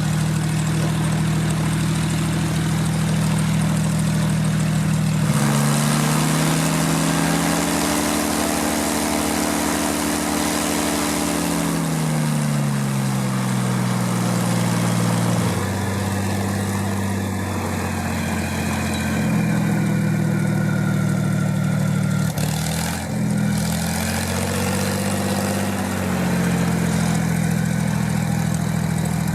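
Dornier Do-27's six-cylinder piston engine and propeller running. The note rises sharply about five seconds in, holds, then slides down over a few seconds, and shifts up and down again near the end.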